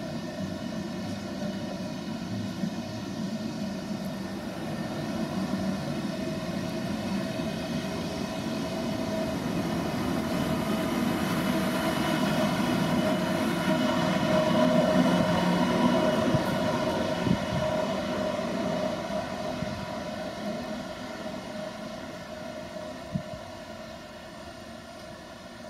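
Deutsche Bahn ICE high-speed train pulling out slowly: a steady electric whine with a low rumble of wheels on rails, swelling as the train and its rear power car pass, then fading as it moves away. A single short click near the end.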